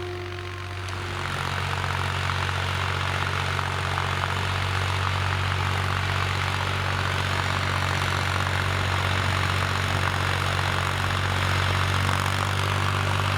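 IHC 353 tractor's three-cylinder diesel engine running steadily under load while pulling a spring-tine cultivator; it grows louder about a second in, then holds an even drone.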